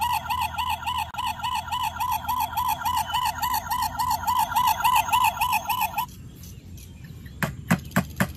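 Electronic toy siren warbling quickly, about four wails a second, which stops about six seconds in. A few sharp clicks follow near the end.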